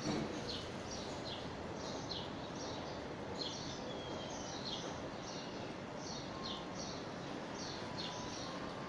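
A bird chirping over and over, short high falling chirps about two or three a second, over a steady hiss.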